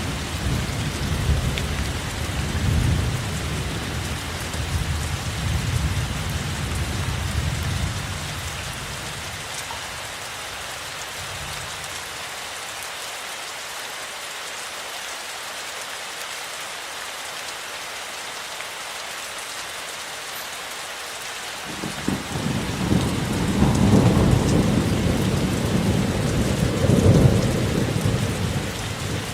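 Steady heavy rain with rolling thunder. A long rumble fades away over the first third, the rain goes on alone, then a new roll of thunder breaks in suddenly about three quarters of the way through and swells twice.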